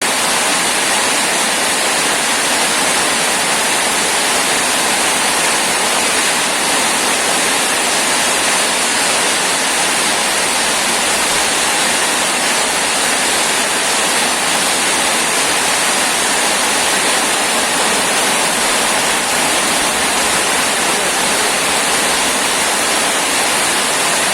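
Heavy rain pouring down steadily in a dense, even hiss with no let-up.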